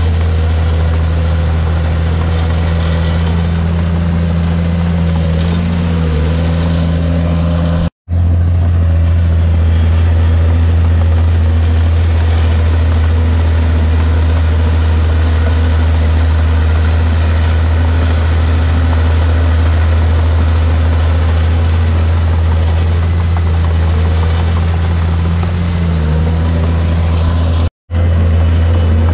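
Heavy diesel engine of a Komatsu D51PX bulldozer running steadily with a strong low drone. The sound drops out for an instant about eight seconds in and again near the end.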